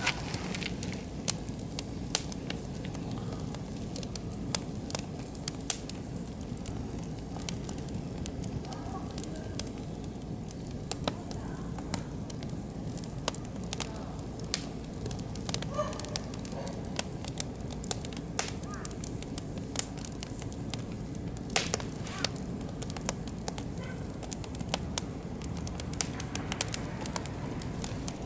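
Oak and beech wood fire burning, crackling with many irregular sharp pops over a steady low rumble.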